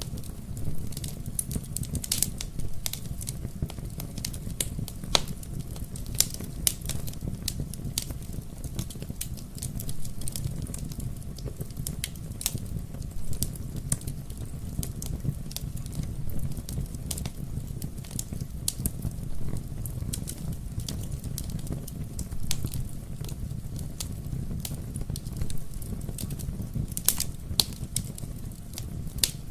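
Fireplace fire crackling, with frequent irregular sharp pops over a steady low rumble of the flames.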